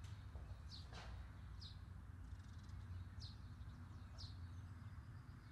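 Faint bird chirping: short, high, downward-sliding chirps about once a second over a low steady hum.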